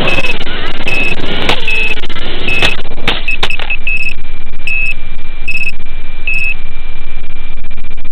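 High electronic beeping, one short beep a little under once a second, over a loud steady hiss, with a few sharp clicks about three seconds in. After about six and a half seconds the beeps stop and one continuous high tone carries on under the hiss.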